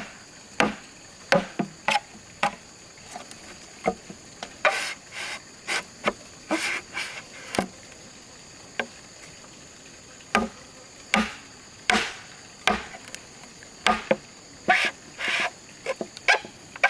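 Bamboo being chopped with a blade: irregular sharp knocks, roughly one or two a second, some in quick pairs. Insects drone steadily and high-pitched behind them.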